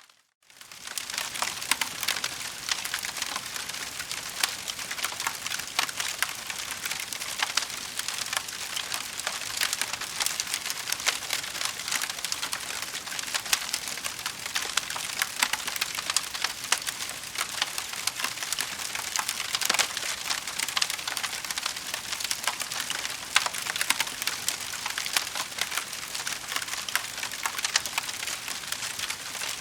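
Wood fire in a fireplace crackling steadily, with dense small pops and snaps over a hiss. The sound drops out for a moment at the very start, then fades back in.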